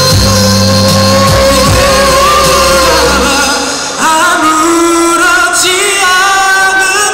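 Live song performance: a singer holding long, wavering notes over instrumental accompaniment. The low accompaniment drops out and the sound dips briefly about three and a half seconds in, then the singing comes back in.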